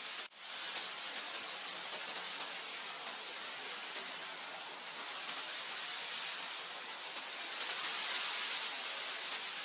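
Wind blowing over grassland: a steady, airy hiss that swells slightly about eight seconds in. It cuts out for an instant near the start.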